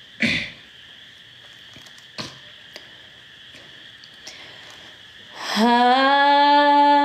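A few quiet seconds with a faint hiss and small clicks, then about five and a half seconds in a woman's singing voice starts a long, steady held note: the opening of a Nepali folk song.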